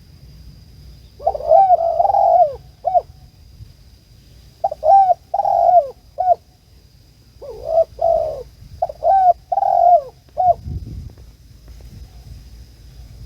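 Spotted dove cooing: four phrases of low coos a second or two apart, each phrase ending in a short clipped note. A faint steady high-pitched whine runs underneath.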